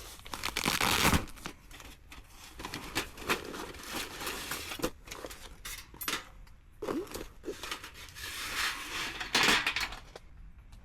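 Rustling and crinkling handling noise in several bursts, with a few light clicks and knocks mixed in; the loudest bursts come near the start and near the end.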